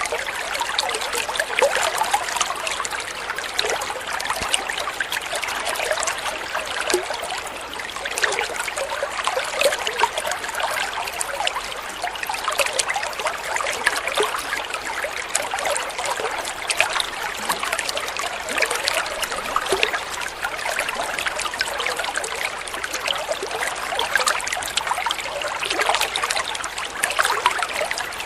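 Running water trickling and splashing steadily, a continuous rush flecked with small bubbling splashes.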